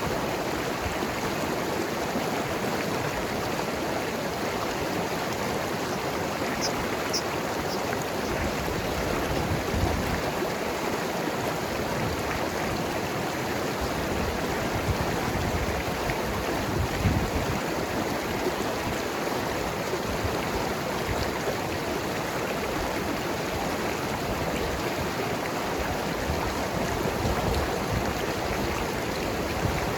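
Mountain river flowing over rocks: a steady rush of water with gurgling, swelling a little deeper now and then.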